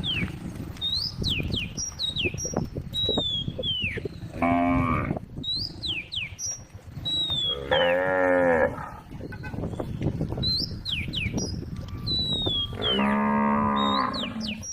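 Cow mooing three times, each call about a second long, spread several seconds apart.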